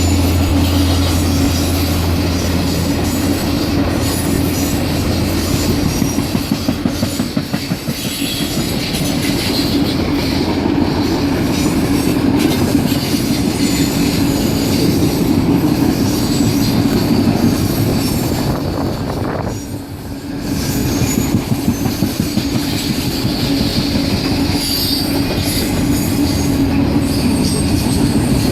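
Circus train cars rolling past close by: a fast, continuous clatter of wheels over the rail joints with high-pitched wheel squeal on top. It eases briefly about twenty seconds in.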